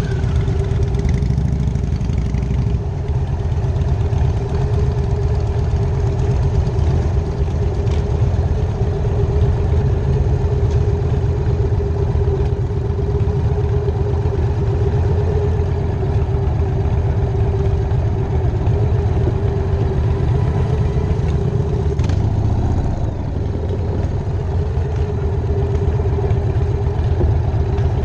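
1999 Harley-Davidson Night Train's V-twin engine running steadily at an even pitch, a deep low rumble.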